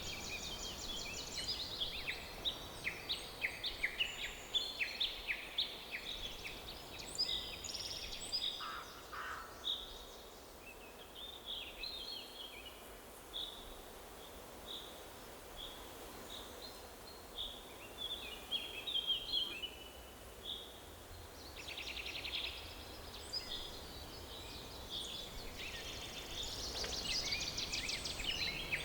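Songbirds singing and chirping over a faint steady background hiss, with several overlapping birds and quick rapid-note trills that grow denser near the end.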